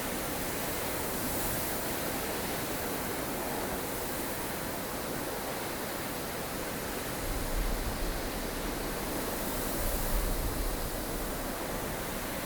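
Strong, blustery wind of a snowstorm: a steady rushing hiss, with deeper gusts buffeting past halfway and again about ten seconds in.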